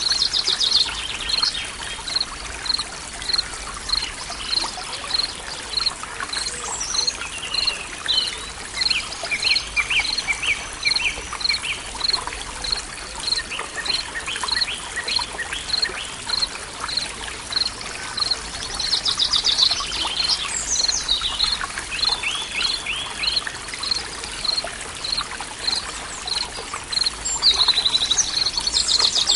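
Forest ambience: water trickling steadily under birdsong. A high note repeats evenly about one and a half times a second throughout, and several bursts of trilled birdsong come and go.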